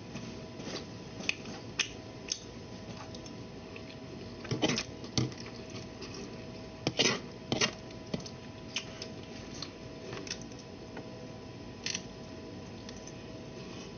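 Close-up eating sounds: chewing and wet mouth smacks with scattered clicks of a fork on a plate, a dozen or so short sounds with two brief clusters in the middle, over a steady faint hum.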